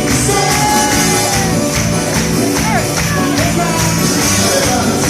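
Live band music: a medley with singing and a steady, even beat of tambourine-like percussion.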